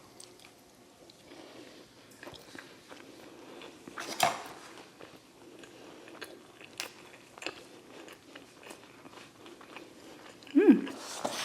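Close-up biting and chewing of a breaded chicken tender, with one loud crunchy bite about four seconds in and smaller chewing clicks after it. A short hum from the eater comes near the end.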